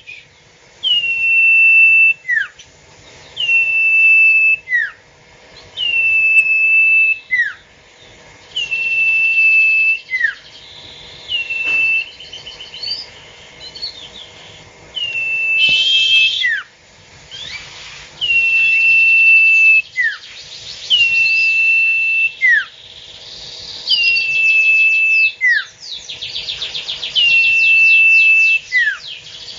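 A burung sirtu calling over and over without pause. Each call is a held high whistle of about a second that ends in a quick downward slur, repeated roughly every two to three seconds, with fainter overlapping calls at times.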